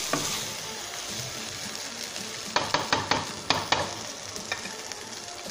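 Chicken and vegetable stuffing sizzling in a non-stick frying pan as it is stirred with a spatula, with a quick run of spatula knocks and scrapes against the pan in the middle.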